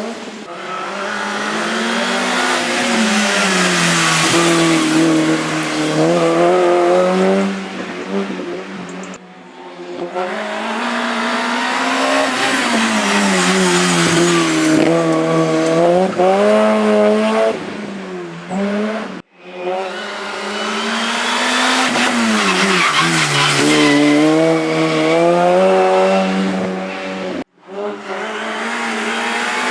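Race car engines revving high and dropping back again and again as the cars brake and accelerate through slalom chicanes, with tyres squealing at the hardest moments. The sound cuts off abruptly three times.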